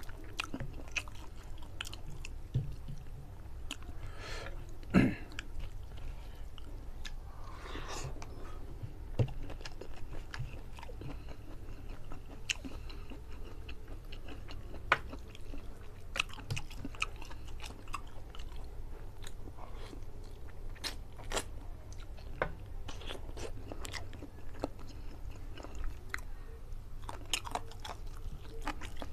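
Close-miked mouth sounds of a man eating curry chicken and rice with his hands: chewing and biting with many short wet clicks, and a single loud thump about five seconds in.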